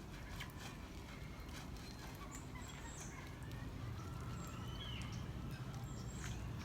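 Birds calling: short high chirps, some falling in pitch, repeating every second or so, with scattered clicks.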